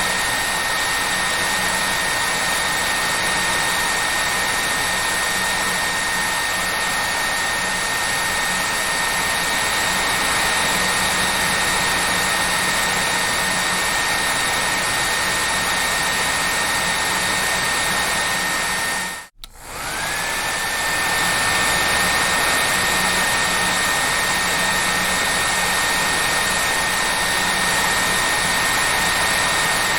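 Hair dryer running steadily: a full rushing blow with a high steady whine from its motor. About two-thirds of the way through it dies away for a moment and comes back, the whine sliding up to its pitch again.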